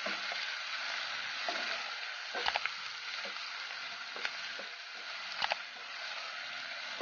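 Chopped onions, curry leaves and pandan leaves sizzling in hot oil in a non-stick pot while being stirred with a spatula. A few sharp knocks of the spatula against the pan come about two and a half, four and five and a half seconds in.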